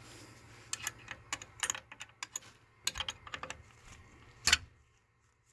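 Quick, irregular clicks and small rattles of hand work on the oil burner's fittings as the oil line is opened to check for oil, with one sharper click about four and a half seconds in.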